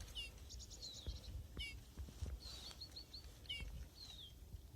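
Small songbirds calling and chirping, with a short descending call repeated several times and a quick run of rapid notes about half a second in.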